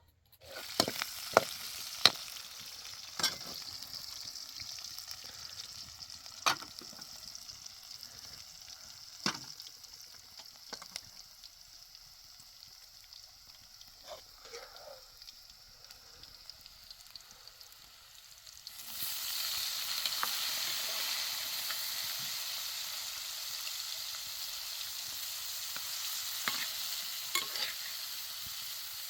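A steady sizzling hiss with sharp clicks and taps scattered through it. It grows louder about two-thirds of the way in.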